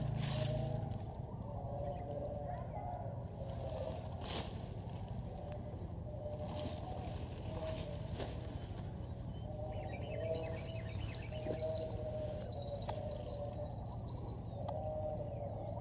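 Insects trilling steadily at a high pitch, with a repeated low wavering call in short phrases beneath it and a few sharp clicks.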